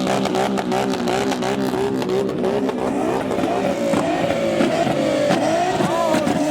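Car engine running loudly and revving.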